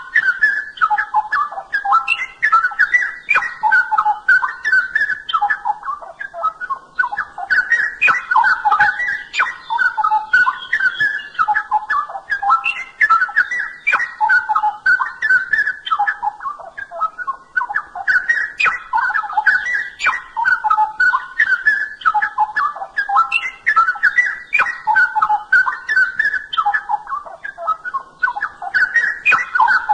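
Straw-headed bulbul (cucak rowo) singing loud, melodious phrases of quick notes jumping up and down in pitch, one phrase after another with brief gaps every few seconds.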